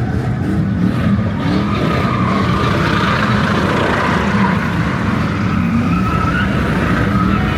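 Car engine running hard at high revs with tires squealing in a wavering high pitch, as in a burnout in the pit.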